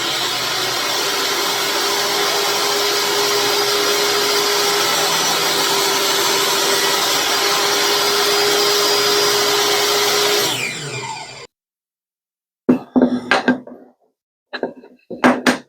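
Table saw motor running steadily with a constant whine, then switched off about ten and a half seconds in and winding down. A few brief sounds follow near the end.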